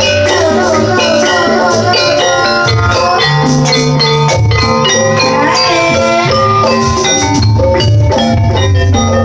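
Javanese jaranan gamelan music: tuned metal percussion playing busy, quick melodic patterns over low drum strokes, with a shaken rattle in the mix.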